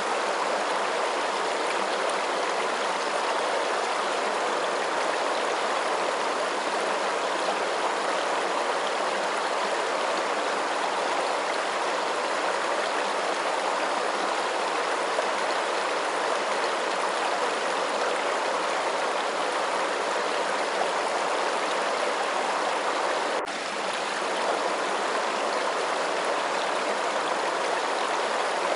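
Steady, even rush of running water, like a flowing stream, with one brief dip in level about two-thirds of the way through.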